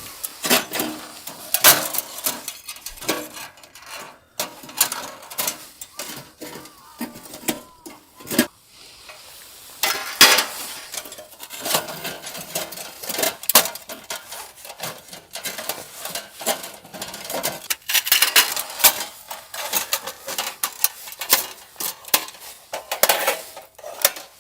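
Cooking and eating utensils clinking and scraping against pots and dishes in many irregular sharp knocks.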